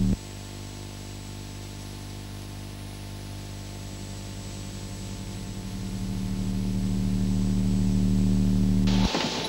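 Car engine running at a steady pitch, growing louder from about halfway through, then cutting off abruptly near the end.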